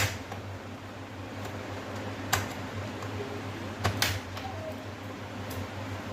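A few short, sharp clicks and taps over a steady low hum: one at the start, one a little over two seconds in, and a quick pair about four seconds in.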